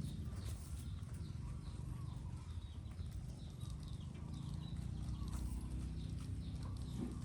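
Domestic pigeons cooing, a low continuous warbling, with faint short high chirps recurring over it.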